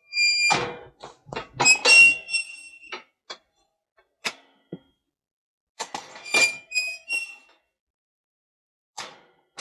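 A bird's short squeaky calls, loud and close, in two bunches of several notes: one at the start and one around six seconds in, with a lone call near the end.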